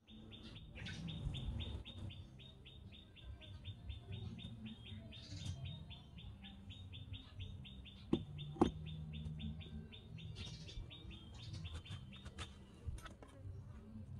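A bird chirping in a fast, even series, one short high note repeated about four or five times a second, stopping near the end. Two sharp knocks sound a little past the middle.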